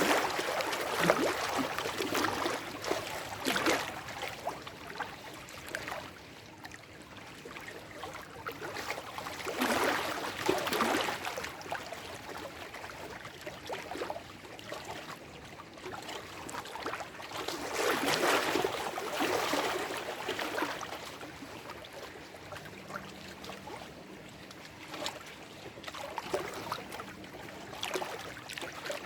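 Small lake waves washing and lapping over shore rocks, swelling and easing off every several seconds with small splashes.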